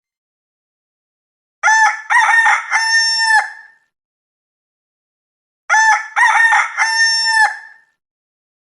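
Rooster crowing cock-a-doodle-doo as a notification tone, played twice about four seconds apart, each crow broken into several notes with the last one held longest.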